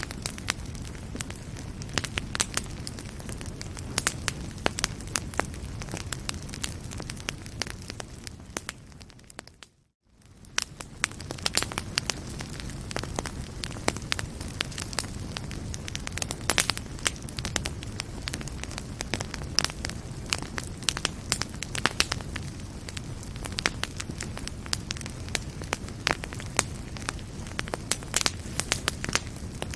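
Wood fire in a fireplace crackling, with frequent sharp pops over a steady low rumble of flame. About a third of the way through, the sound fades briefly to silence and then fades back in.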